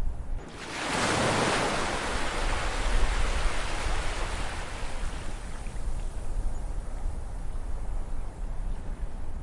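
Ocean waves breaking: one wave crashes in about half a second in, then washes and hisses slowly away, over a steady low rumble of surf.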